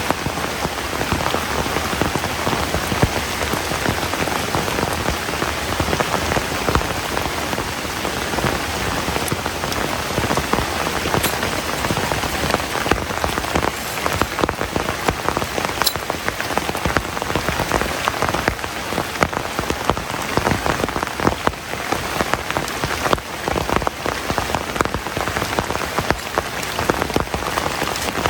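Heavy rain falling steadily, with dense patter of drops striking surfaces and a few sharper drips.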